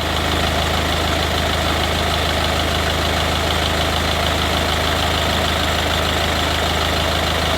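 Hyundai i40 diesel engine idling steadily, on its test run after an automatic transmission rebuild.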